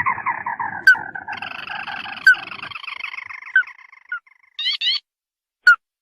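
Crake (burung tikusan) lure call: a descending rattling trill that runs on into a second trill about a second in and fades out by about four seconds, with sharp rising chirps over it. After a short pause comes a quick pair of rising notes, and one more chirp near the end.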